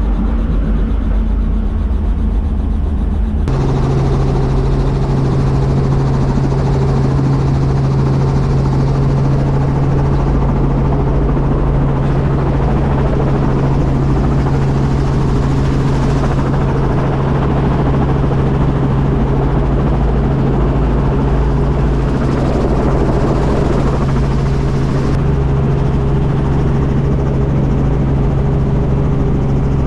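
Small tour helicopter's engine and rotor running with a loud, steady drone. About three and a half seconds in, the hum steps up to a higher, stronger tone and then holds steady.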